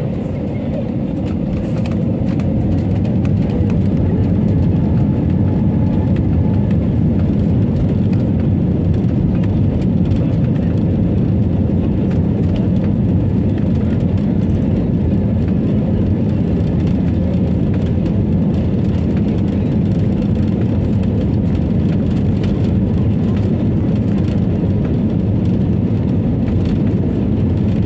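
Passenger airliner cabin noise during take-off: the engines run at high power under a loud, steady low rumble. The noise builds over the first few seconds, then holds steady.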